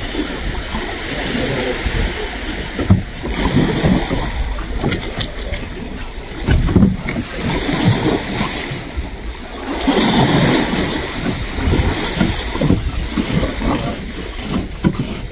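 Gusty wind buffeting the microphone over surf washing onto a beach, a constant low rumble with noisy swells that rise and fall.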